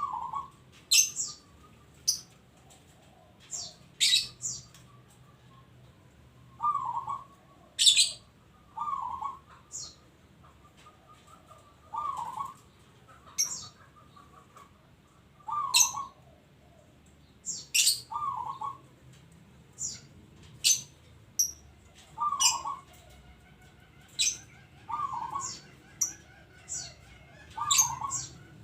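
Zebra dove cooing: short rippling coos repeated about every two to three seconds. Sharp high chirps sound in between.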